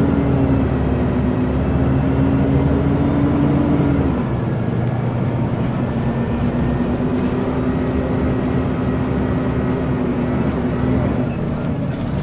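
Scania L94UB bus with a ZF automatic gearbox driving, its diesel engine running steadily under a whine; the whine drops away about four seconds in and comes back a couple of seconds later at a slightly lower pitch.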